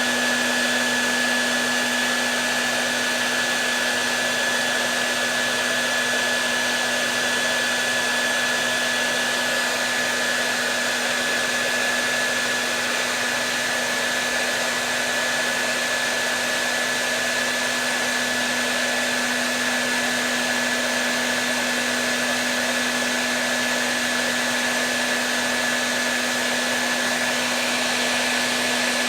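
Hair dryer running steadily on one setting: an even rushing of air with a low motor hum and a high whine held at one pitch.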